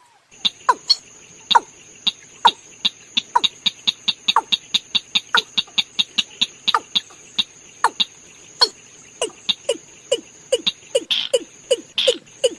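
Male watercock calling: a long series of short, hollow notes, each sliding down in pitch, a few per second and coming faster near the end. A steady high thin whine runs behind the calls.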